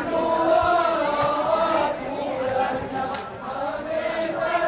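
A group of male voices chanting a Saman dance song together in unison, with long held and bending notes and a few sharp claps.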